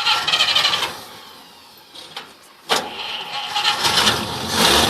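Old Graham Brothers (Dodge Brothers) truck engine starting for the first time in about 20 years: a click and a sharp clank about two and a half seconds in, then the engine catches and its rumble builds toward the end.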